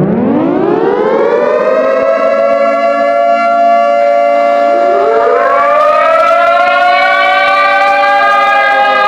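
Civil defense siren winding up from a low pitch to a steady wail over about two seconds. About five seconds in, a second, higher siren tone winds up, and the two wail together.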